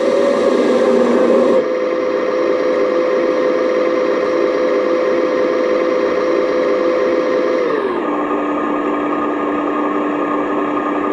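Radio-controlled model excavator running with a steady motor whine that slides down to a lower pitch about eight seconds in and holds there.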